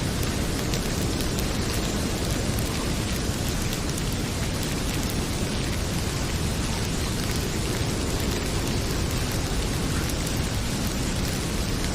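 Heavy rain pouring in a steady dense hiss, with a low rumble underneath and many small crackling ticks from a wood fire.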